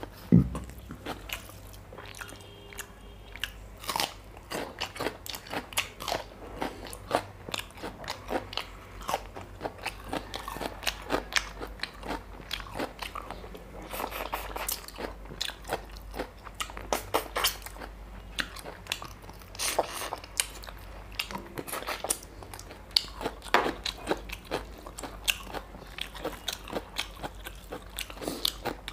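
Close-miked chewing and mouth sounds of a person eating mutton curry and rice by hand, with many small wet clicks. A single sharp knock about half a second in is the loudest sound.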